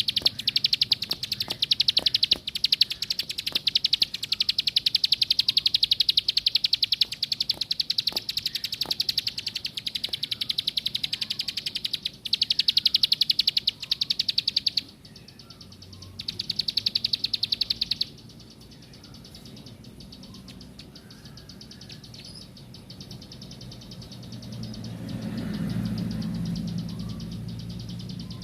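Ciblek sawah (a prinia) singing a long, fast, buzzy trill of rapidly repeated high notes that breaks off about halfway through, comes back in a short burst, then stops. A low rumble rises and fades near the end.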